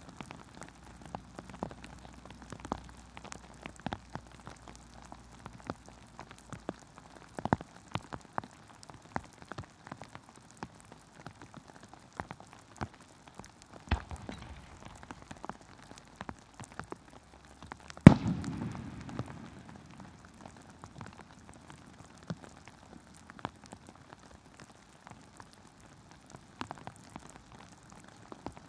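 Heavy rain pattering close by as many sharp ticks. A firework shell bursts with a loud bang and a rolling low echo about eighteen seconds in, and fainter bangs come at about seven and fourteen seconds.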